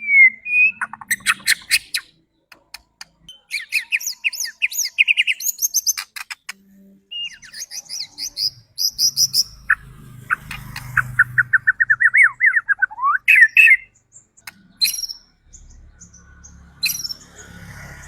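White-rumped shama (murai batu) singing in varied bursts of rapid whistles, sharp clicks and chattering phrases, with short pauses between them. In the middle comes a long run of quick repeated notes climbing slightly in pitch, ending in an upward sweep.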